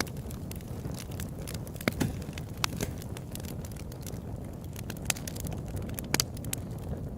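Open-air campfire burning, with a steady low rumble and irregular sharp pops and crackles of burning wood.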